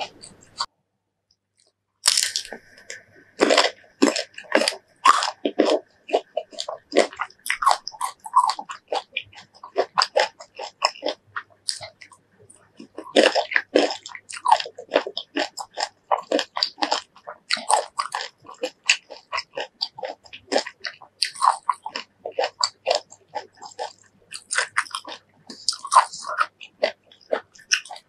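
Close-up crunching and chewing of crisp raw fruit, most likely a slice of green mango, in dense irregular bites. It starts about two seconds in after a short dead silence.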